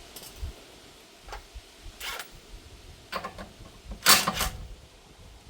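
Metal hand tools clicking and knocking against a car's front suspension parts during strut removal, a handful of separate knocks with one louder metallic clank about four seconds in that rings briefly.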